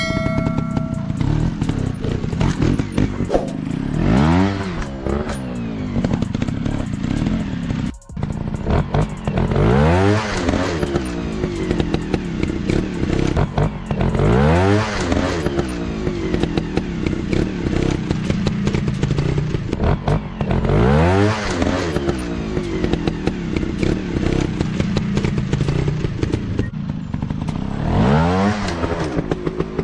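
Dirt bike engines running and revving, the pitch sweeping up and falling back in surges every several seconds.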